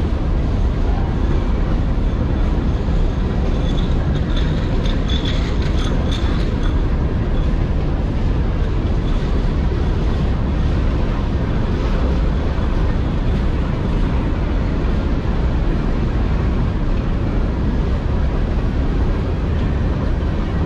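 Loaded CSX open-top hopper cars of a rock train rolling past: a steady, loud rumble of steel wheels on the rails, with a faint high-pitched tone about four to six seconds in.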